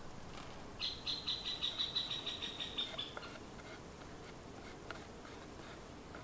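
A bird's trill: a quick series of about a dozen high notes, roughly five a second, lasting a little over two seconds.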